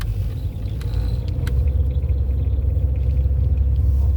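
Steady low rumble of a car on the road, heard from inside the cabin, with a faint steady hum on top.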